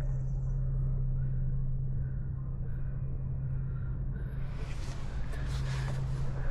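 A steady low engine hum over a deep rumble, as from an idling vehicle. A broader rushing noise with a few light clicks swells in about four seconds in.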